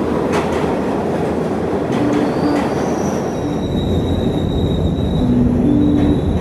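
New York City subway train running, a loud steady rumble with a thin, high wheel squeal coming in about halfway through.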